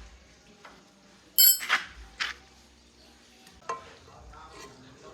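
Hard metal pieces knocking together: one loud, ringing metallic clink about a second and a half in, then a few softer clinks and taps.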